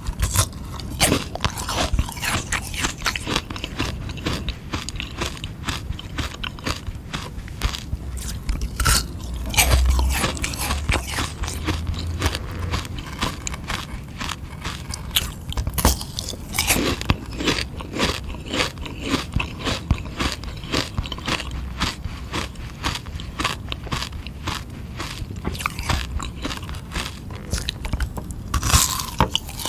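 Biting into and chewing a frozen two-colour sugar-water ice lolly: a dense run of sharp crunches and scrapes, several a second, as the hard ice breaks up between the teeth.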